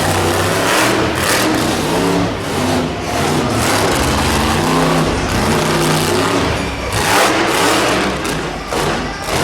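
Monster truck engine revving hard, its pitch rising and falling again and again, with loud bursts of throttle.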